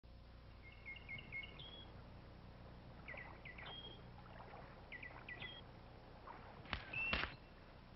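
A small songbird singing a short phrase of quick chirps three times, over a low steady hum. Near the end come two sharp clicks, the loudest sounds here, the second carrying a brief high whistle-like tone.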